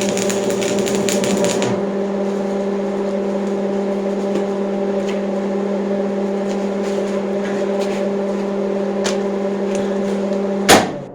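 Electric power tool motor running steadily with a strong hum. There is extra grinding hiss for the first couple of seconds. Near the end a sharp knock comes and the hum cuts off.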